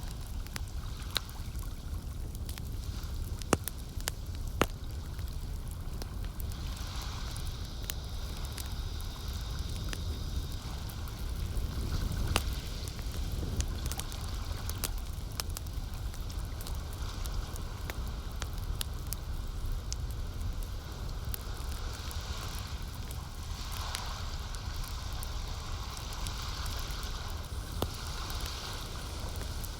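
Campfire crackling with scattered sharp pops, over the gentle lapping of lake water and a steady low rumble.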